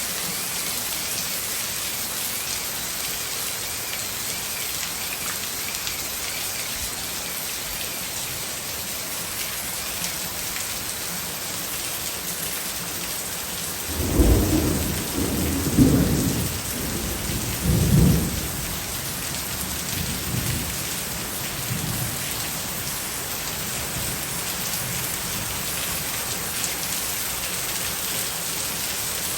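Heavy rain falling steadily, with a low rumble of thunder swelling three times about halfway through.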